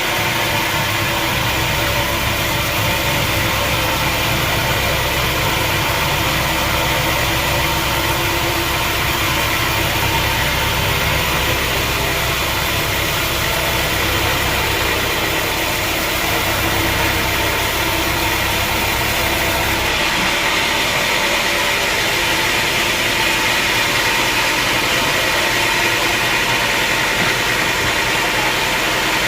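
Sawmill machinery running steadily: a continuous mechanical drone with high, steady whining tones. The low rumble under it drops away about two-thirds of the way through.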